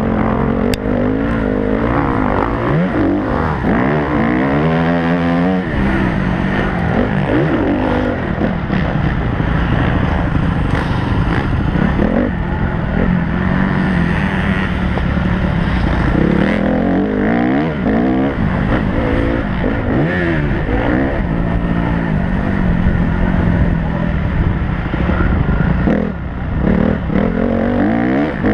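Motocross bike engine heard from the rider's helmet, revving up and dropping back again and again as the rider accelerates, shifts and backs off around the dirt track.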